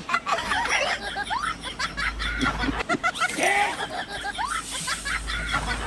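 Several voices snickering and laughing, in many quick, overlapping high-pitched chirps.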